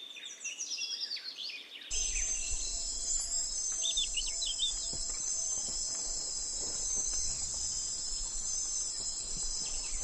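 Wild nature ambience: a couple of seconds of quick, falling bird chirps, then a sudden switch to a steady, high-pitched insect chorus with occasional bird calls over it.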